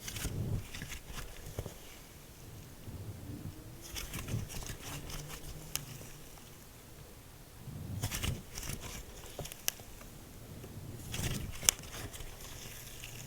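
Hands squishing and pressing slime, making sticky crackling and popping clicks that come in bursts every three to four seconds, with one sharper snap near the end.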